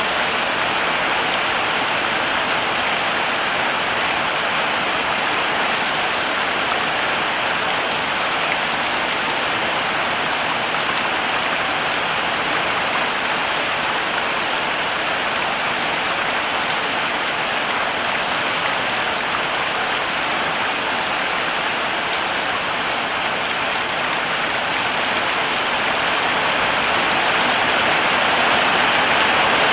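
Heavy rain falling steadily, a dense even hiss of many drops with no single drops or thunder standing out; it grows a little louder near the end.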